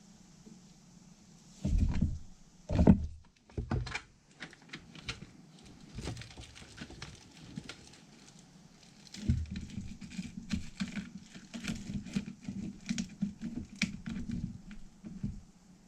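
Starter motor parts being handled and worked on at a workbench: a few heavy knocks, then a long run of small, quick metal clicks and taps.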